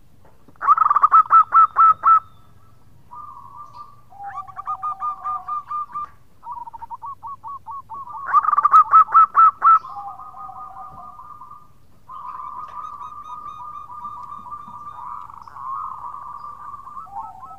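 Zebra dove (perkutut) singing in bursts of rapid staccato cooing notes, loudest about a second in and again around nine seconds. From about twelve seconds on it changes into a long run of fast rippling notes.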